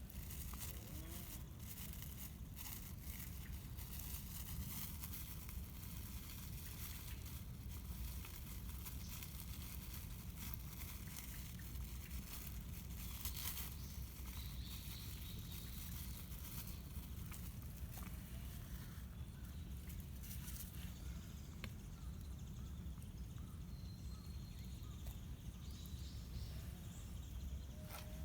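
Outdoor ambience: a steady low rumble with scattered small crackles and rustles throughout.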